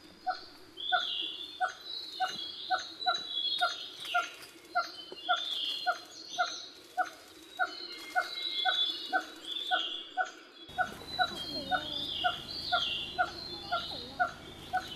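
Birds calling: a short pulsed note repeated steadily about twice a second under varied higher chirping calls. The background changes abruptly, gaining a low hum, a little before the last few seconds.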